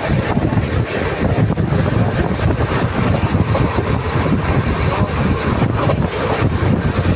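Express train running at speed, heard from an open coach doorway: a steady rumble of the wheels on the track with wind buffeting the microphone.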